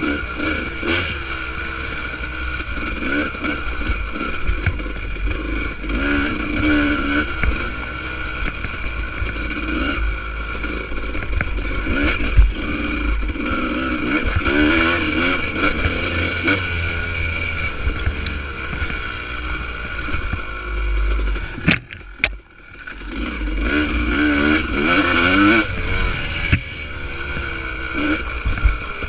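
Honda CR250R single-cylinder two-stroke dirt bike engine ridden hard, its revs rising and falling over and over with throttle changes, under a heavy rumble of wind on the microphone. About three-quarters of the way through the throttle shuts and the engine note drops away for a moment, then climbs again.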